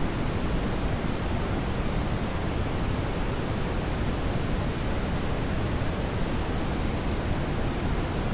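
Steady brown noise: an even, unchanging rushing hiss weighted heavily toward the low end, like a deep, distant waterfall.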